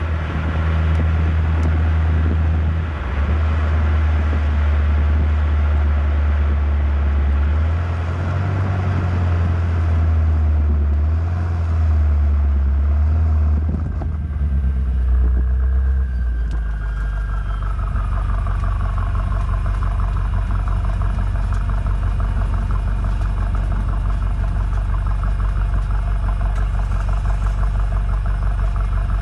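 BMW M8 Competition's twin-turbo V8 running while driving at low speed, its low note rising and falling through the first half, then settling into a steady, evenly pulsing low note.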